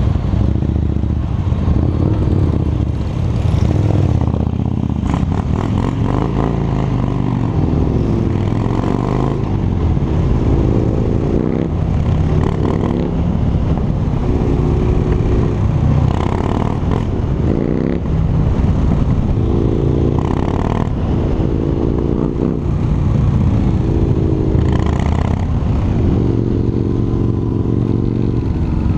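Harley-Davidson V-twin motorcycle engine under way, accelerating through the gears. Its pitch climbs and then drops at each shift, several times over.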